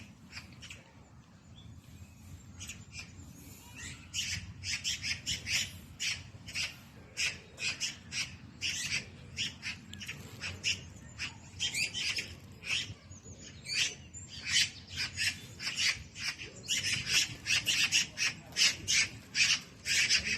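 Birds calling in quick succession, many short high-pitched notes several times a second, getting louder near the end.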